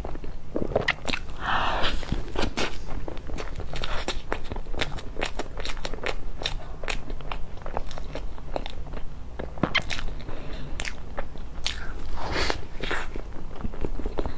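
Close-miked chewing of a soft cream-filled pastry: a steady stream of wet mouth clicks and smacks, with louder bites about 2 s in and about 12 s in.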